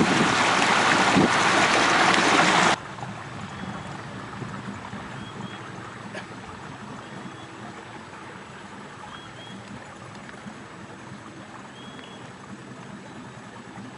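A boat's motor runs with loud rushing wind and water noise, then cuts off abruptly about three seconds in. After the cut there is a quieter outdoor hum with a few faint, short, high chirps.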